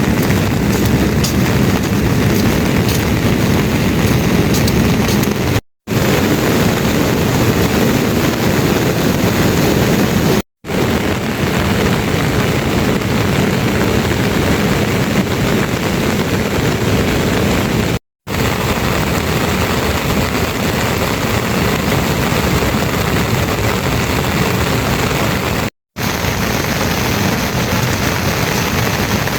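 Heavy rain pouring down as a loud, steady rushing noise, cut off briefly by a short drop-out four times.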